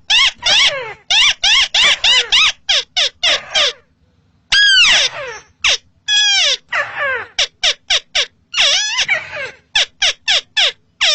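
Crake (burung tikusan) of the rice paddies calling: rapid runs of short, harsh notes, each sliding down in pitch, with a brief pause about four seconds in.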